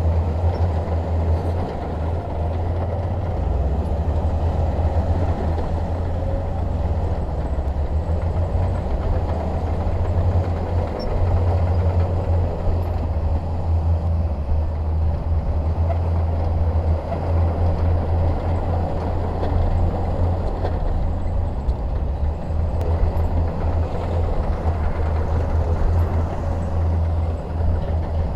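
Shantui DH17 bulldozer's diesel engine running steadily, a deep continuous rumble that swells and eases slightly.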